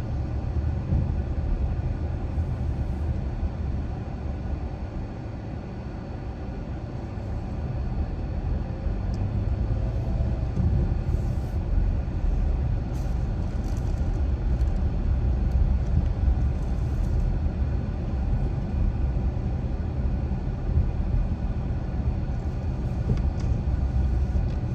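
Steady low rumble of a car driving, tyre and engine noise, easing off slightly around six seconds in and building again.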